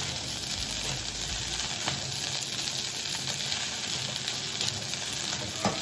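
Rice vermicelli stir-frying in a wok over high heat: a steady sizzle as the noodles are tossed with two pairs of chopsticks, with a couple of faint clicks.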